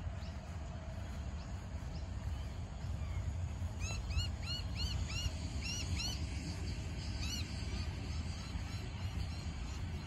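A bird calling outdoors: from about four seconds in, a quick run of short, repeated rising-and-falling notes for a few seconds, over a steady low rumble.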